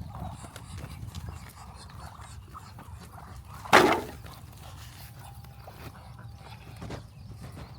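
Animal calls: one loud, short, harsh call about four seconds in and a weaker one near the end, over a steady low hum.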